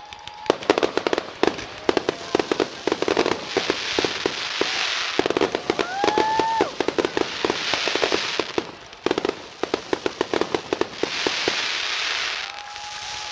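Fireworks finale: rapid volleys of aerial shell bursts and crackling, in dense runs with hissing stretches between. A short rising whistle sounds about six seconds in.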